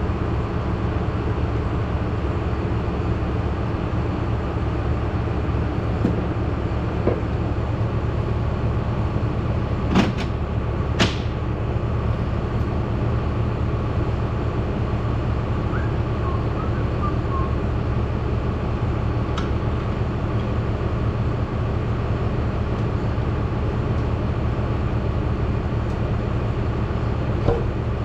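A steady mechanical drone runs throughout, with two sharp metallic clanks about ten seconds in and another near the end.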